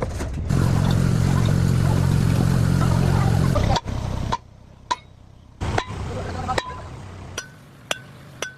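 A loud, steady machine noise with a low rumble runs for about three seconds and cuts off suddenly. It is followed by a few light metallic taps, each with a short ring, like metal parts being tapped or knocked together in a workshop.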